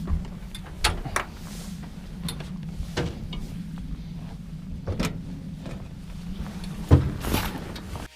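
A steady low mechanical hum, like an engine running, with scattered sharp knocks and clanks of metal; the loudest clank comes about seven seconds in.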